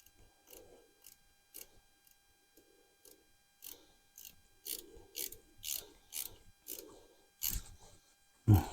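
Hand ratchet wrench worked in short clicking strokes, about two a second, as a fastener on the tractor battery is tightened, with a louder sharp knock near the end.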